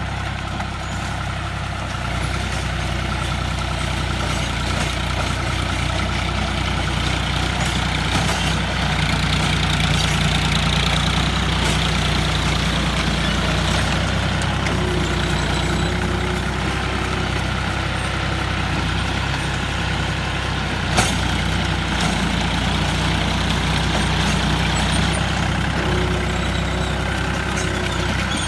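Tractor diesel engine running steadily while driving a rotary tiller, with one sharp click about two thirds of the way through.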